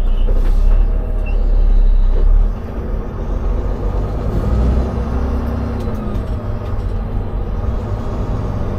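Semi-truck tractor's diesel engine and road noise heard from inside the cab: a steady low rumble that drops in level about two and a half seconds in.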